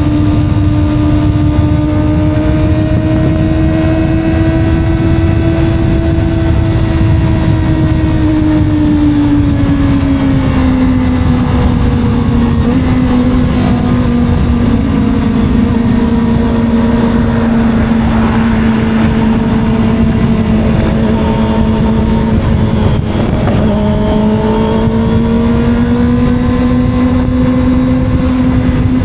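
250 cc Kawasaki sport motorcycle engine running at a steady cruise, heard from the rider's seat with wind and road rumble underneath. The engine note eases down about a third of the way in, holds, then climbs slightly near the end.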